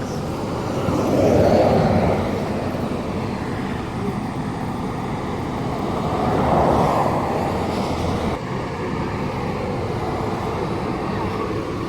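Road traffic noise: a steady drone of vehicles, with two passing vehicles swelling louder, about a second and a half and about seven seconds in.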